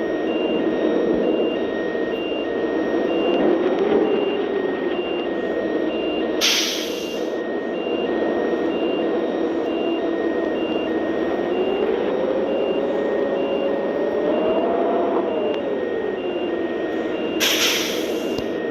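A vehicle's engine running while driving, its pitch rising and falling a little, with an electronic warning beep repeating steadily about once every 0.7 seconds and a constant hiss. Two short, loud hisses come about six seconds in and near the end.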